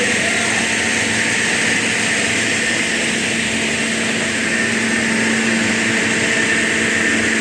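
Woodworking machinery running with a steady, even hum and whine, with no strokes or cuts standing out.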